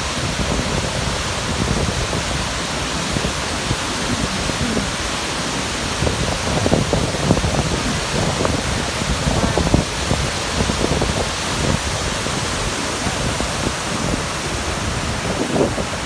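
Nugget Falls, a large waterfall, pouring: a steady, full-range rush of falling water heard close to its base, with brief low buffets of wind on the microphone now and then.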